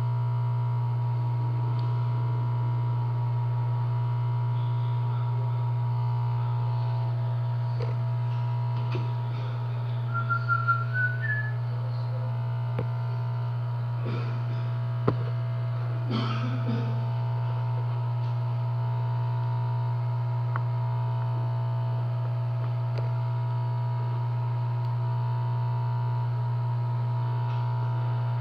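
A steady low hum with a steady higher whine over it. About ten seconds in comes a short rising run of chirps, and a few clicks follow.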